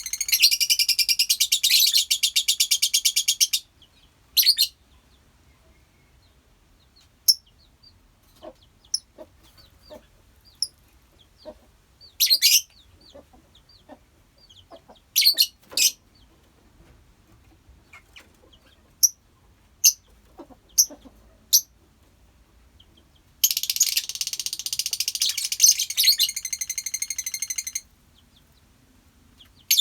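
Colony of lovebirds calling: a long burst of rapid, high-pitched chattering at the start and another about 23 seconds in, with short sharp chirps scattered in between.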